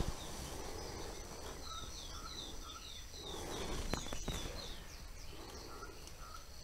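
Songbirds chirping in the early morning: a quick series of short falling high chirps, about three a second, for a few seconds, with short lower notes from another bird before and after. A couple of sharp clicks or knocks, at the start and near the middle, come through over a low rumbling background.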